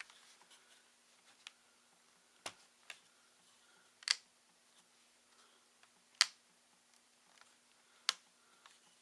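Sharp, sparse clicks and taps of plastic and metal laptop parts being handled and pried during disassembly of a ThinkPad T61, about five distinct clicks a second or two apart.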